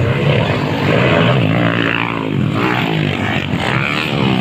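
Several motocross bikes' engines revving hard at once, their pitches rising and falling as the riders work the throttle around the track.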